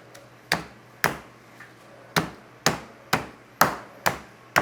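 Meat tenderizer pounding duck breasts through plastic wrap on a cutting board: about eight sharp strikes at roughly two a second, with a short pause after the second one. The breasts are being tenderized so they will not be tough once fully fried.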